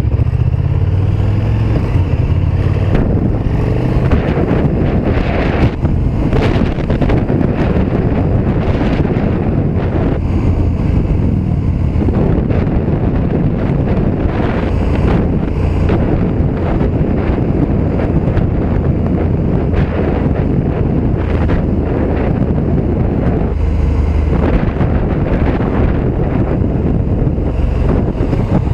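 KTM 1290 Super Duke R Evo's V-twin engine running steadily as the bike rides along, with heavy wind noise on the microphone.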